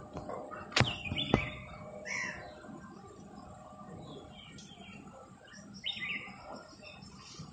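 A bird chirping in short calls, a few times. About a second in there are two sharp clicks half a second apart, louder than the chirps.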